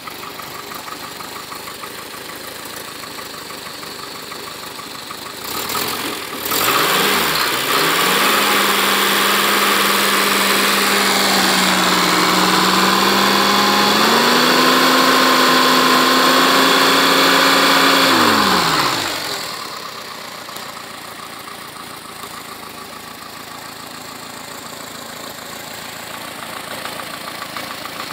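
Freshly rebuilt Renault 904 cc four-cylinder engine (a Dauphine 1093 replica) running at its first start. It idles, then about six seconds in revs up and is held at high revs for about twelve seconds, rising a step higher midway, before dropping back to idle.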